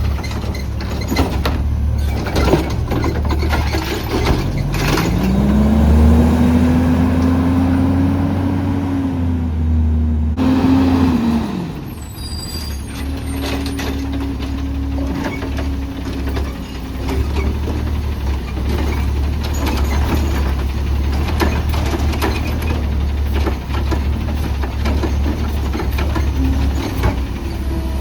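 Garbage truck engine (CNG Autocar ACX) idling, then revving up about four seconds in and holding high for several seconds before dropping back to idle. The rev-up is the sort that powers the Heil Rapid Rail side loader's hydraulics. Clanks and rattles run throughout.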